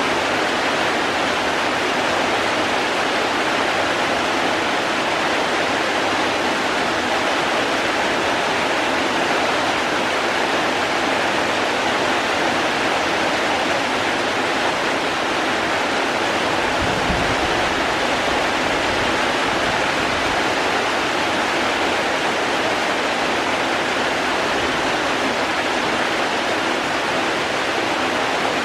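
Steady, heavy rainfall, a dense, even hiss of water. A brief low rumble comes a little past halfway.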